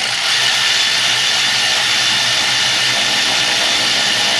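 Pneumatic air tool running steadily with a loud hiss and whir, driving the hard-to-reach top mounting bolt of a starter, then cutting off suddenly near the end.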